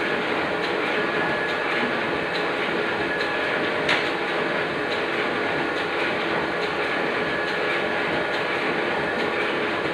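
Oliver printing press running steadily, with a continuous rhythmic mechanical clatter and one sharper click about four seconds in.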